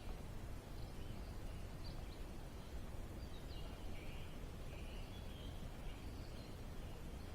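Faint, scattered bird chirps over a low, steady background rumble, the chirps thickest in the middle.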